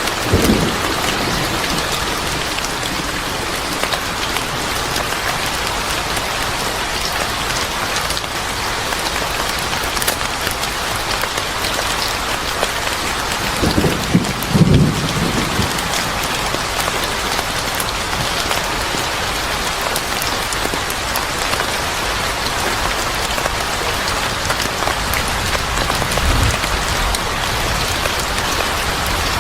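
Steady rain falling on a surface, with short low rumbles of thunder, the loudest about halfway through.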